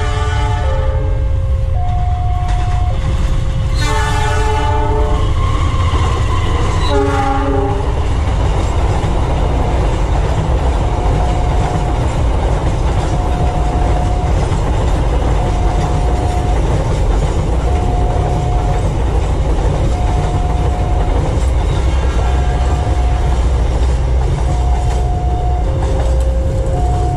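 A KRL electric commuter train sounds its horn three times in the first eight seconds, then runs past with loud wheel-on-rail rumble and clickety-clack. Throughout, a level-crossing warning alarm sounds a repeating two-note chime.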